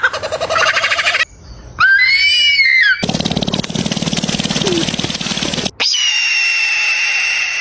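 A series of different bird calls cut one after another: a fast trill, then a few arching whistled notes, then a low buzzy rattle, then a long steady high whistle.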